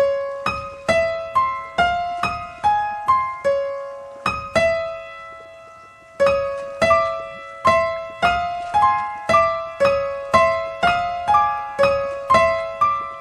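Eerie instrumental music: a slow melody of high piano notes, each struck and quickly fading, about two notes a second. About four and a half seconds in, one note is left to ring out and fade for well over a second before the melody resumes.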